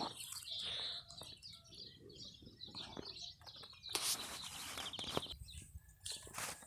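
Small birds chirping and twittering, with a short rapid trill and a brief rushing noise about four to five seconds in.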